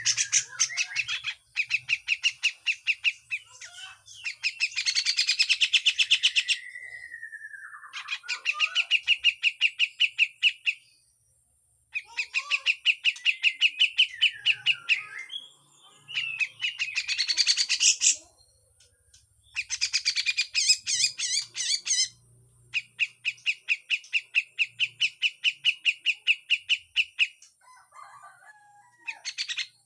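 Grey-cheeked bulbul (cucak jenggot) giving harsh, rapid rattling 'besetan' calls in phrases of a few seconds each, with short pauses between. One phrase trails into a falling note. A steady high-pitched hiss runs in the background.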